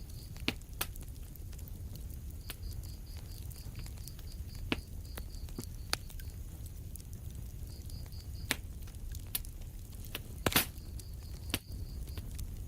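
Wood fire crackling in a fireplace: scattered sharp pops and snaps over a low steady rumble, with the loudest burst of crackles about ten and a half seconds in.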